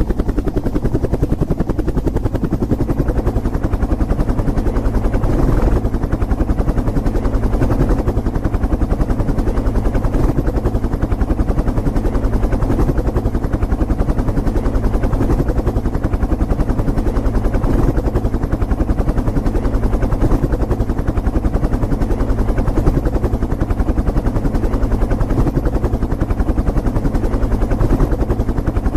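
Helicopter rotor sound: a steady, fast chopping that runs on unchanged.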